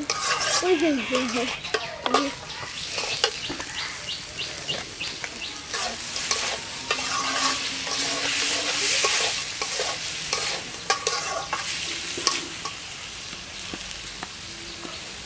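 Sliced onions, garlic and green chillies sizzling as they fry in a metal karahi, with a metal spatula scraping and clacking against the pan as they are stirred.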